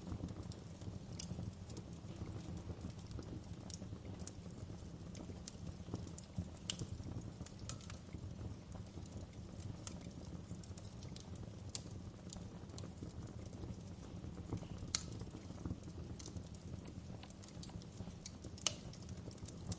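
Wood fire crackling: irregular sharp snaps and pops over a low steady rumble, with two louder pops late on.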